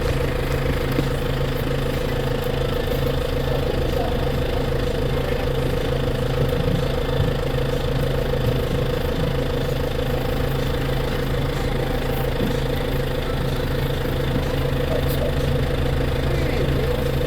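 Tractor engine running at a steady, unchanging speed, with a constant low drone.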